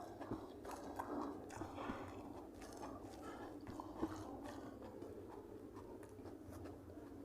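A person chewing food close to the microphone: wet mouth sounds with irregular small clicks and crackles.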